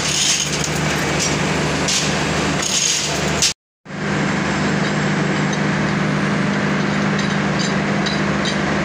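Loud, steady running of palm oil mill machinery, with a constant low motor hum under a noisy wash. It cuts out abruptly for a moment about three and a half seconds in, then carries on unchanged.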